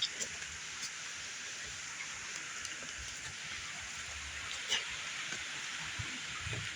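Steady rushing of river water, with a few scattered short clicks.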